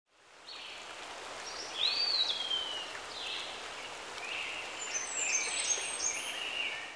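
Birds singing in several short whistled phrases, one a clear note that rises and then slides down about two seconds in, over a steady soft hiss that fades in at the start and out at the end.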